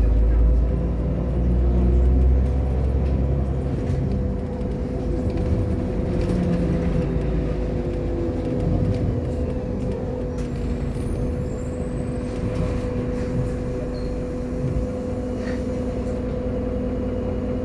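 Irisbus Agora L articulated city bus running, with a deep engine drone that is loud for the first four seconds and then eases. A steady whine at one pitch runs under it.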